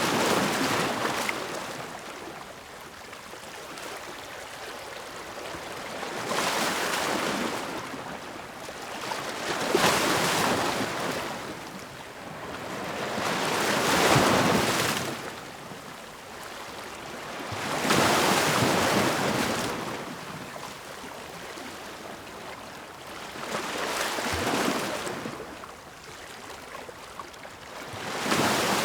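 Ocean waves breaking on a shore, the surf swelling and falling away about every four seconds, with seven breakers in a row.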